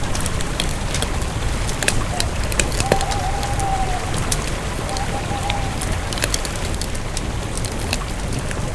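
Campfire burning, with irregular crackles and pops over a steady hiss and low rumble. A faint whistling tone rises and holds briefly about three seconds in, and again more weakly about five seconds in.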